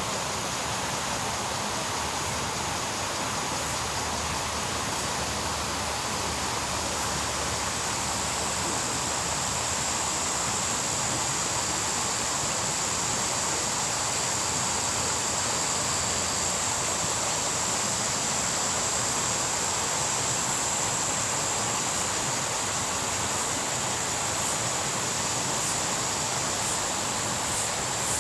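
Steady rushing of a small stream, with a high, even insect drone over it and a few faint high ticks near the end.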